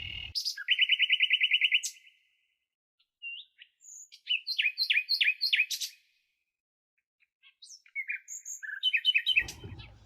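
Small songbirds chirping: a fast trill of high notes, then a run of sharp falling chirps, and more chirps near the end, with short silent gaps between.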